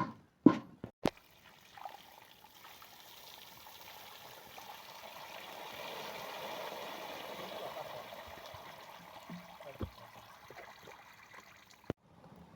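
Water running steadily, swelling to its loudest midway and then easing off, after a couple of sharp knocks at the start; it cuts off abruptly near the end.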